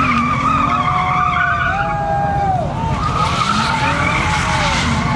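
Truck tires squealing in a sustained burnout, the squeal wavering slightly in pitch over a steady low rumble.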